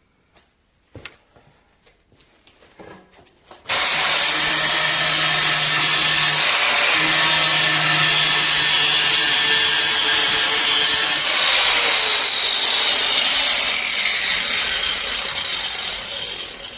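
An angle grinder starts suddenly a few seconds in and cuts a 45-degree edge along a porcelain stoneware tile. Near the end it is switched off, and its whine falls as it winds down.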